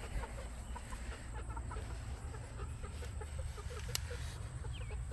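Domestic chickens clucking softly, a quick run of short low clucks, over a steady low rumble, with one sharp click about four seconds in.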